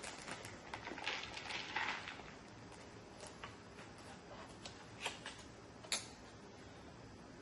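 Loose bird seed rustling and small seeds ticking against a plate as a piece of honey-coated bread is dipped and pressed into it. A busier rustle in the first couple of seconds, then scattered single light clicks, the sharpest about five and six seconds in.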